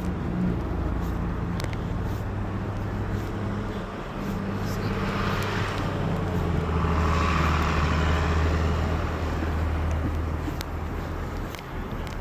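A motor vehicle's engine running close by with a steady low hum. The noise swells from about five seconds in and fades again near ten seconds, like a vehicle passing.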